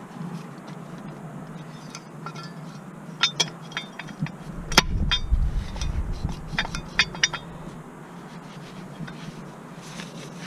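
Metal tools and parts clinking and knocking during hands-on car repair work: scattered sharp clinks, bunched in the middle, with a low rumble partway through.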